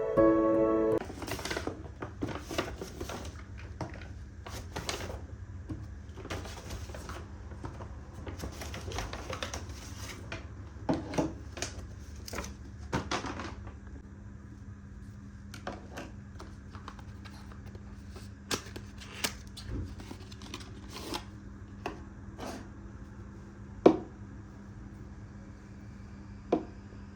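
Irregular light clicks and taps, some louder than others, over a low steady hum; background music stops about a second in.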